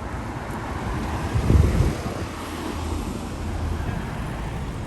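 Kia Stinger's twin-turbo 3.3-litre V6 cruising, heard from inside the cabin: steady road and wind noise over a low engine hum, with a brief louder low rumble about a second and a half in.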